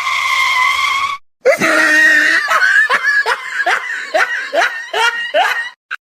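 High-pitched vocalising: one long held cry, then a quick run of about ten short calls, each rising in pitch.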